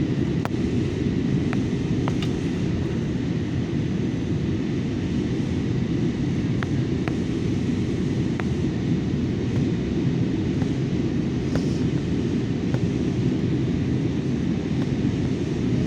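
Steady low rumble of an airliner's cabin noise in flight, even throughout, with a few faint clicks.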